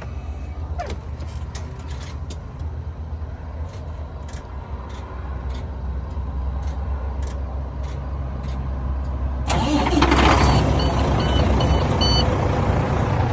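Truck engine idling just after start-up, a steady low hum. About nine and a half seconds in, a loud even rushing noise joins and stays, louder than the engine.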